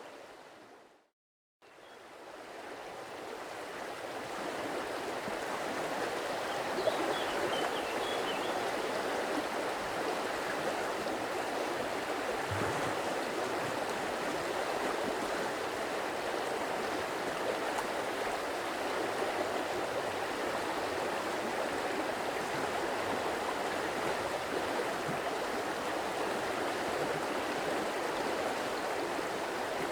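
Steady rushing and babbling of a stream flowing over rocks. It fades out just after the start to about a second of silence, then fades back in over the next few seconds.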